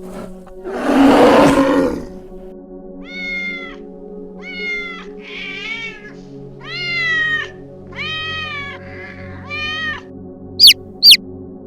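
A cat meowing again and again, about six drawn-out meows, over steady background music. A loud noisy burst comes about a second in, and two quick, high, falling calls come near the end.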